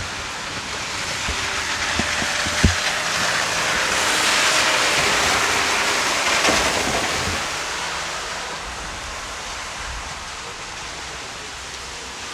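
Heavy rain pouring down, swelling louder for a few seconds in the middle and then easing off. A couple of light knocks come about two seconds in.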